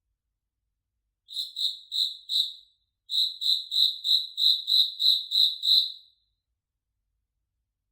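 Cricket chirping: short, high chirps at about three a second. A run of four begins a little over a second in, then after a brief pause a run of nine that stops about six seconds in.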